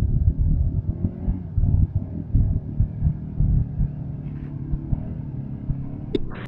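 ATV engine running and revving unevenly through a mud hole, with a sharp click about six seconds in.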